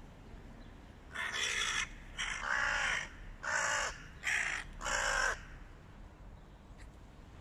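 Hooded crow cawing: five loud, harsh caws in a row, each about half a second long, from about a second in until past the middle.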